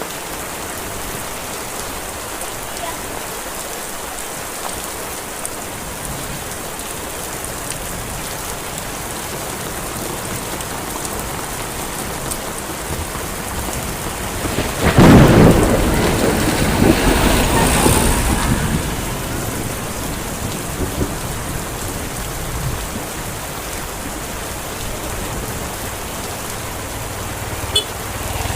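Heavy rain falling steadily in an even hiss. About halfway through, a sudden loud clap of thunder breaks in and rumbles for a few seconds before fading back under the rain.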